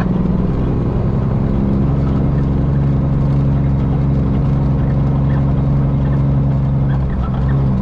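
Semi truck's diesel engine running steadily under way, heard from inside the cab, its pitch shifting down about two seconds in and back up near the end.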